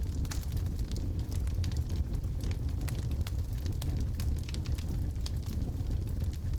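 Wood fire burning in a fireplace: a steady low rumble of flames with many scattered sharp pops and crackles from the burning logs.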